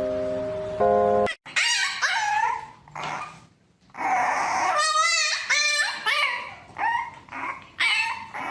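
A dog whining and yipping in a string of short cries that bend up and down in pitch, one of them wavering. Background music plays for the first second and cuts off.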